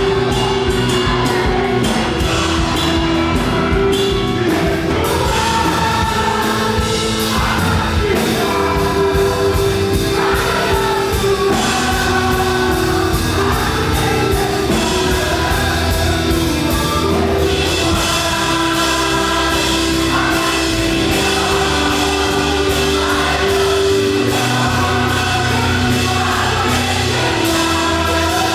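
Live up-tempo gospel worship music: voices singing together over a band with drums, held notes and a steady driving beat.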